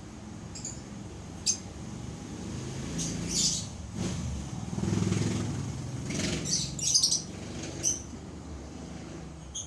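Pet lovebirds giving short, high chirps in scattered bursts, busiest about six to seven seconds in. Under them, a low rumble swells through the middle and fades.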